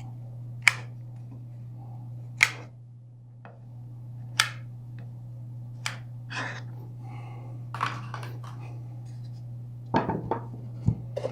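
Sharp clicks and taps about every two seconds while hot melt glue is applied to a wooden table saw insert, over a steady low hum.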